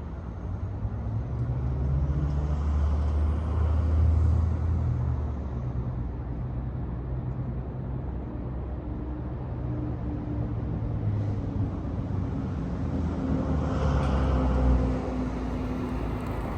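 BMW E46 M3's S54 inline-six running through ARH headers, a non-resonated X-pipe and a Supersprint race exhaust. The engine note swells louder a few seconds in and again near the end.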